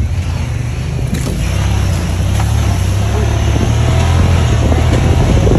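Honda Pioneer 1000 side-by-side driving on a trail: a steady low engine drone that swells slightly toward the end.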